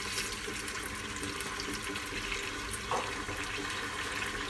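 Chicken pieces and chopped tomato frying in oil in a stainless steel pot: a steady sizzle with fine crackles, and one brief louder sound about three seconds in.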